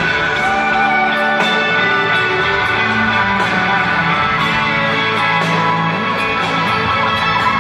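Live band playing an instrumental passage, with guitar to the fore over sustained chords and light percussion; no singing.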